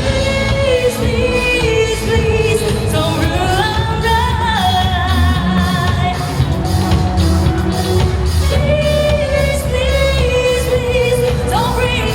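Live pop band playing, with a singer holding long notes over a steady drum beat.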